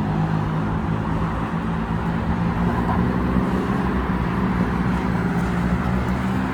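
Steady road traffic noise: a continuous low engine hum from vehicles, with a rushing noise over it.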